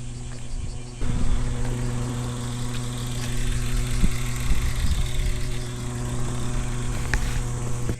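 A motor running with a steady, even hum. It gets louder about a second in and cuts off abruptly at the end.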